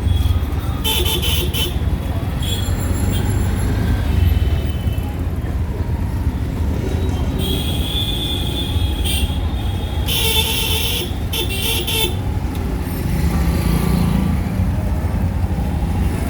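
Auto-rickshaw engine running with a steady low rumble while riding in traffic, with vehicle horns honking in several short blasts, about a second in and again twice in the second half.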